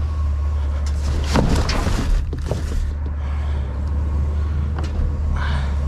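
Rummaging through a dumpster of trash and recyclables: several sharp knocks and a rustle of things being shifted, over a steady low rumble.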